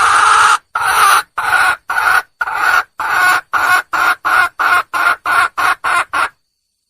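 Red junglefowl hen calling for a mate. One long drawn-out call is followed by about a dozen short calls that come quicker and shorter toward the end, then it stops.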